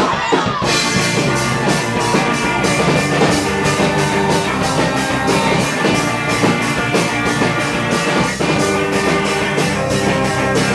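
A rock band playing live: electric guitars, bass and a drum kit, with a steady beat of drum and cymbal hits about three times a second. This stretch is instrumental.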